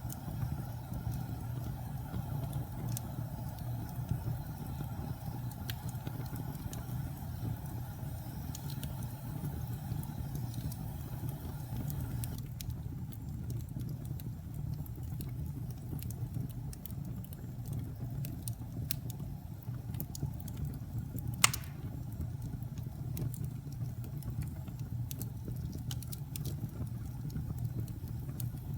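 Log fire burning in a fireplace: a steady low rumble of flames with scattered crackles and one loud pop about three-quarters of the way through.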